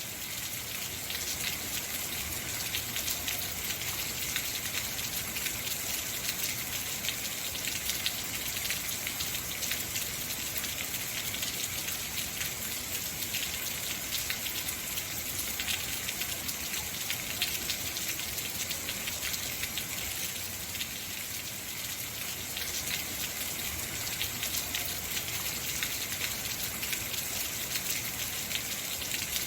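Heavy rain falling steadily: an even hiss made of countless fine drop hits, with no let-up.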